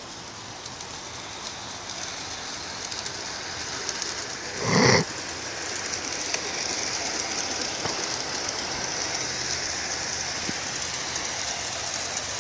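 Large-scale garden railway model train running along its outdoor track: a steady hiss of wheels and motor that slowly grows louder, with no chuffing because no sound system is fitted. About five seconds in, a short, louder sound breaks in briefly.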